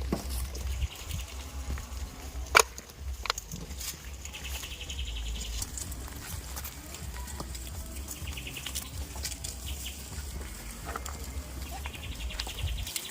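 Outdoor farm ambience with a low rumble. A sharp click sounds about two and a half seconds in, followed by a lighter one. A rapid buzzing trill comes three times.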